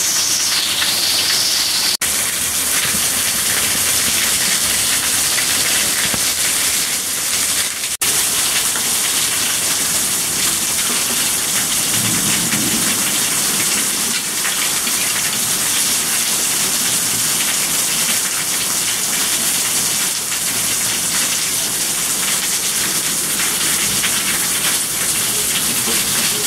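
Heavy rain pouring steadily onto hard surfaces, a dense, even hiss. About twelve seconds in there is a brief low rumble.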